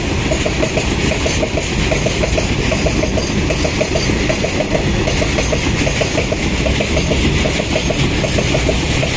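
A goods train of empty coal wagons hauled by two WDG4 diesel locomotives running past: a steady heavy rumble with a fast, regular light ticking throughout.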